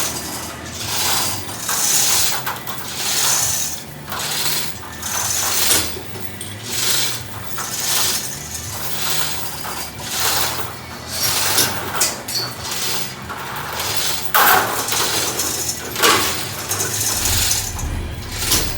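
Hand-operated rigging hoist ratcheting as it is worked to lift and move a 500-gallon storage tank, a metallic clicking and chain rattle in repeated strokes about once a second, loudest near the end.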